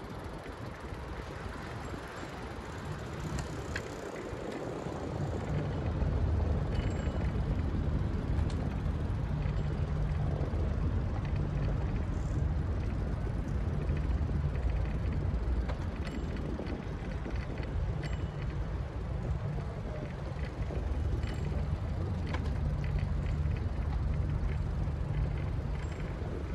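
Low rumble of wind on a phone microphone and rolling noise while riding through a city, getting louder about five seconds in.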